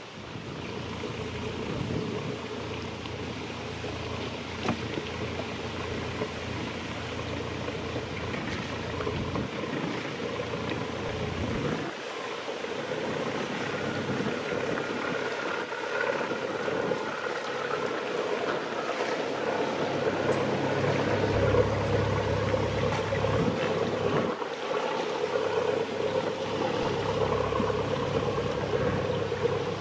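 A motor boat's engine running as it passes on the river, growing louder through the middle, with wind buffeting the microphone and water noise.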